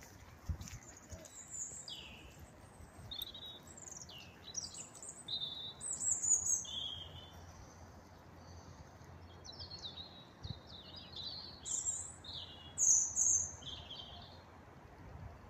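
A small songbird singing: high, thin, varied chirps and quick down-slurred whistles in short phrases, loudest about six seconds in and again near thirteen seconds.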